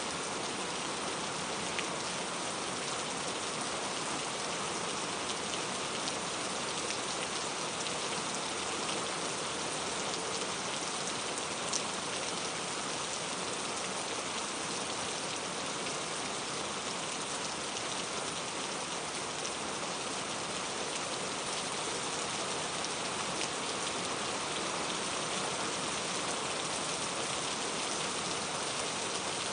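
Steady rain falling, an even hiss with a few separate drops ticking here and there.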